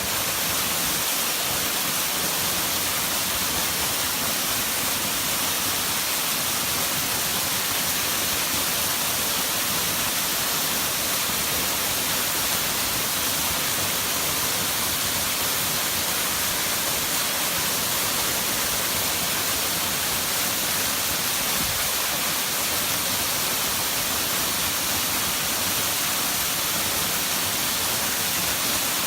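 Waterfall pouring: a steady, even rush of falling water with a strong hiss.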